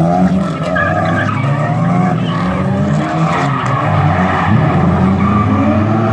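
Drift car engine revving up and down hard over the continuous noise of tyres skidding, as the car slides through a drift.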